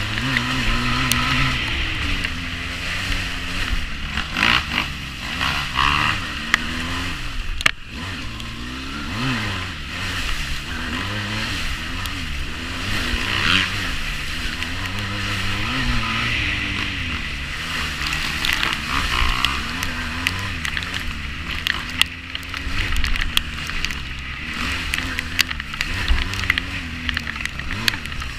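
350cc quad bike engine revving up and down through the throttle while riding off-road, with sharp knocks and scrapes now and then.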